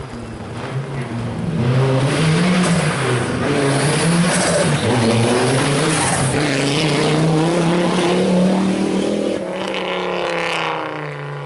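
Rally car engine revving hard, its pitch climbing and dropping again and again as the car accelerates and shifts. A hiss of tyre noise runs underneath, and the sound fades somewhat near the end.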